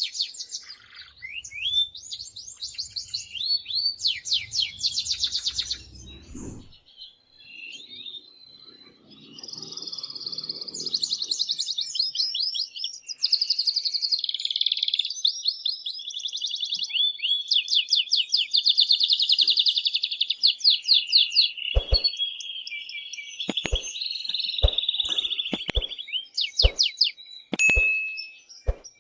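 Canary singing a long, loud song of rapid trills and rolling notes, with a brief lull a few seconds in. Several sharp clicks sound over the song near the end.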